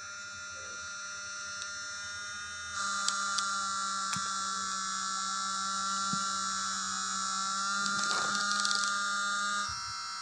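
Steady, high-pitched whine of a small motor, made of several fixed tones. It gets louder about three seconds in and drops back near the end.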